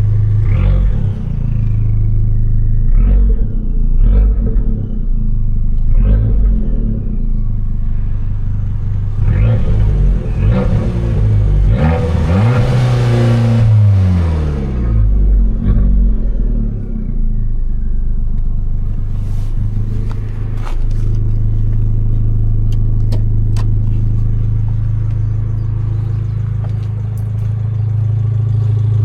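Abarth 595 Competizione's turbocharged 1.4 T-Jet four-cylinder with Record Monza exhaust, revving in a series of short rises and drops over the first several seconds, with a hissing rush midway. The revs then fall away and settle into a steady idle, with a few sharp clicks near the end.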